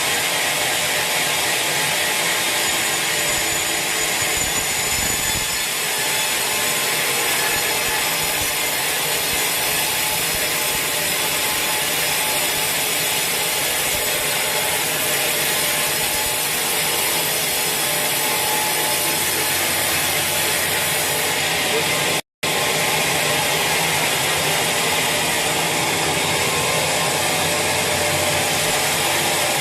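Sawmill saw cutting lengthwise through a large teak log, a steady, unbroken sawing noise. The sound drops out for a split second about two-thirds of the way through, then carries on unchanged.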